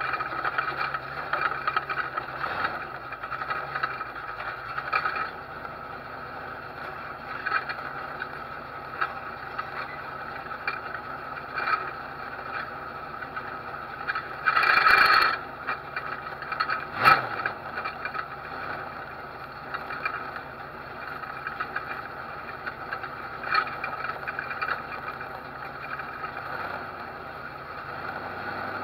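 Race car engine running slowly under caution, a steady drone with irregular rattles and clicks. A louder rush of about a second comes about halfway through, and a single sharp knock follows a couple of seconds later.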